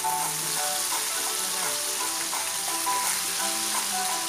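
Minced garlic sizzling steadily in hot oil and sauce in a frying pan as it is stirred with chopsticks, over background music.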